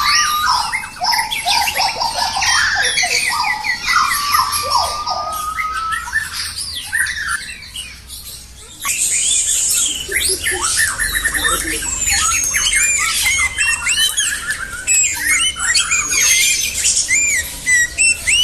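Several songbirds singing and calling at once: a dense, overlapping mix of whistles, gliding notes and chattering phrases, with a short lull about eight seconds in.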